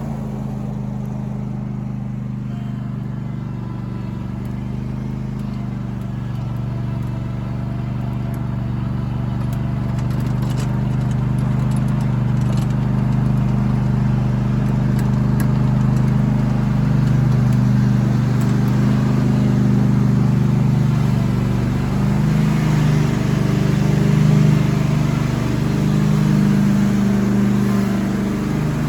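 Lawnmower engine running steadily while mowing, its pitch and level shifting a little with the load.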